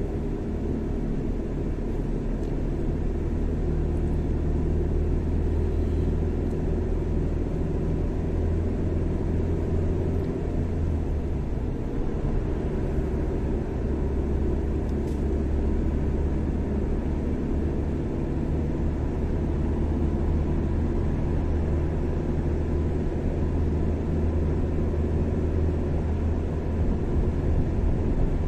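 Car driving at a steady speed on a highway: a constant low rumble of engine and road noise.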